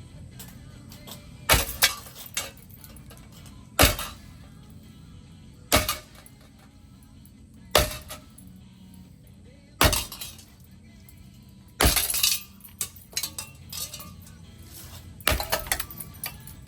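A ceiling fan being smashed: seven sharp blows about two seconds apart, some followed by a short clatter of breaking, clinking pieces. Background music runs underneath.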